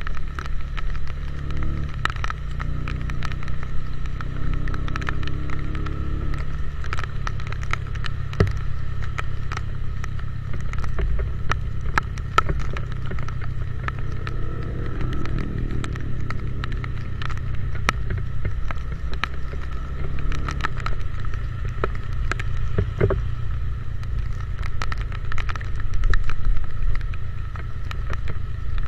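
Motorcycle engine running on the move, its pitch stepping a few times, with frequent sharp ticks of raindrops striking the microphone.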